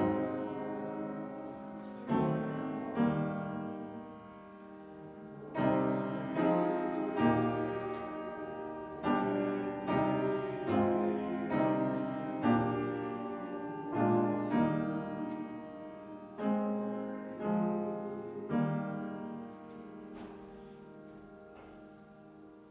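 Piano playing a slow hymn in full chords, each struck and left to ring. A final chord fades away near the end.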